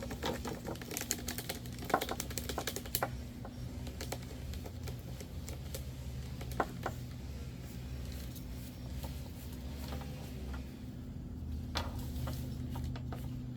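Wires rattling and tapping inside a PVC pipe as they are fed down it: a quick flurry of small plastic clicks over the first three seconds, then a few scattered clicks.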